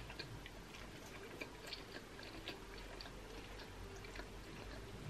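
Close-up mouth sounds of a person chewing a big mouthful of thick stir-fried yakisoba noodles: faint, scattered wet clicks and smacks.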